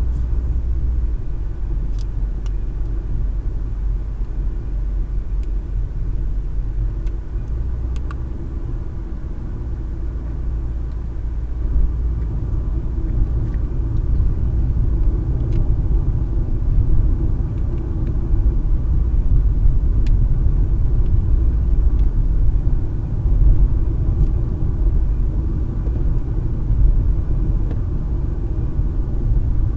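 Low, steady rumble of a car's road and engine noise while driving, heard from inside the cabin, with a few faint clicks. It grows a little louder about halfway through.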